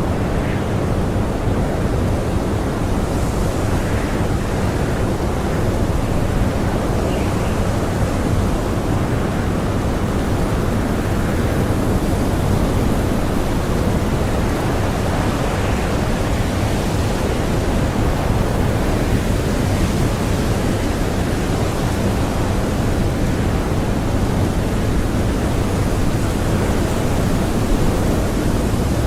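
Strong blizzard wind blowing as a steady, dense rush, with no gusts or breaks standing out.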